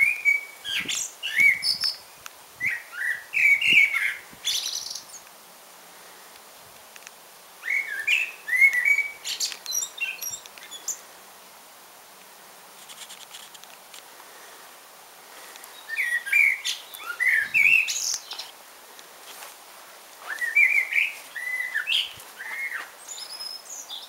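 A songbird singing in short phrases of quick whistled notes with a higher twitter, four phrases separated by pauses of a few seconds.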